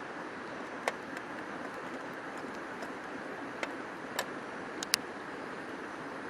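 Steady rushing of a river flowing close by, with a few short, sharp clicks over it, about five in all.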